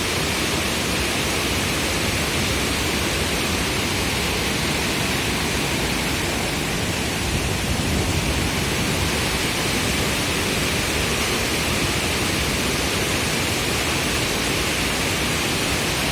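Alibek waterfall rushing, a steady, even noise of falling water that does not change.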